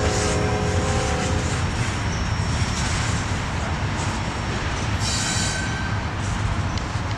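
Norfolk Southern intermodal freight train rolling past with a steady rumble of wheels on rail. Brief wheel squeals come in the first second or so and again about five seconds in.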